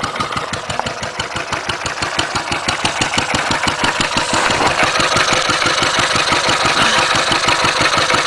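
Wolseley WD8 single-cylinder petrol-paraffin stationary engine running steadily with an even, rapid beat of firing strokes, a little louder from about halfway. Its fuel has just been turned off, so it is running on before it stops.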